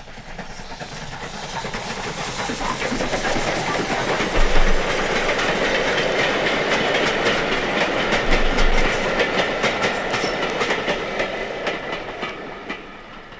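A goods train rolling past, its wheels clicking rapidly over the rail joints; the sound swells up, holds, and fades away near the end.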